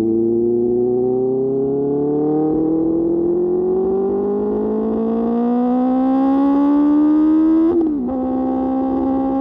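QJ Motor SRK600's inline-four engine through an SC-Project exhaust, its revs rising steadily for nearly eight seconds under acceleration, then dropping on an upshift and holding steady.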